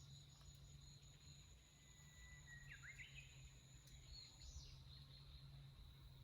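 Faint forest ambience: insects trilling steadily at a high pitch, with a few quick bird chirps about halfway through. The higher trill stops a little after the chirps, and a low steady hum runs underneath.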